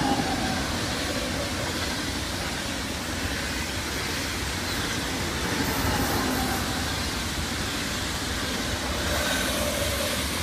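A train running on the rails: a steady rumble and rail noise lasting about ten seconds, with faint whines that slide down in pitch.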